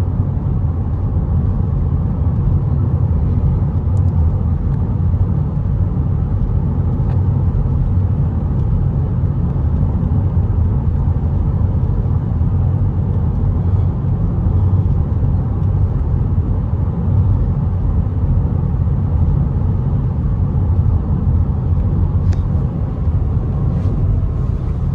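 Steady rumble of a car driving at road speed, heard from inside the cabin: engine and tyre noise with no breaks.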